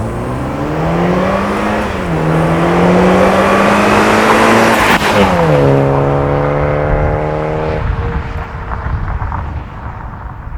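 BMW 320i G20's turbocharged four-cylinder B48 engine running through a valved Stone Exhaust cat-back, accelerating hard. The revs climb, dip for an upshift about two seconds in, then climb again to a peak around five seconds in. The pitch then falls and holds steady, and the sound eases off near the end.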